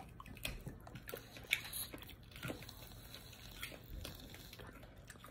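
Close-miked eating: faint chewing and mouth noises, with scattered small clicks, as a piece of meat on the bone is picked from a metal plate and eaten.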